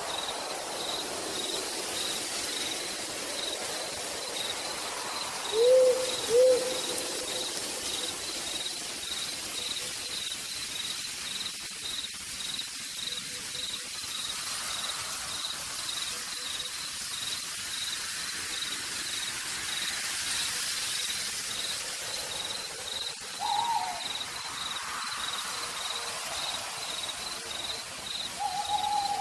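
Forest night ambience: steady rain under a regular pulsing insect chirp. An owl hoots twice in quick succession about six seconds in, the loudest sounds here, with shorter calls again near the end.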